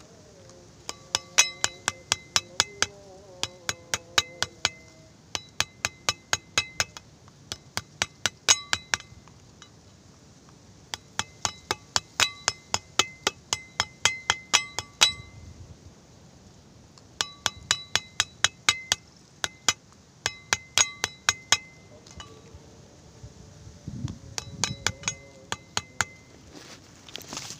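Rapid clinking of something hard against a glass, about five ringing clinks a second, in runs of a few seconds with short pauses between them, as when stirring a mixture in a glass.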